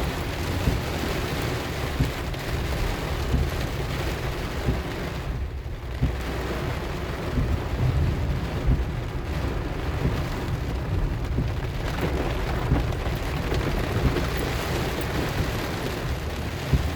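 Heavy rain drumming on a moving car, heard from inside, over a steady low rumble of road and engine. The rain briefly lets up about five and a half seconds in.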